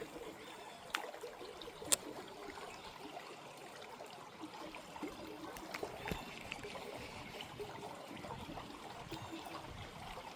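Creek water running steadily, with a few short sharp clicks.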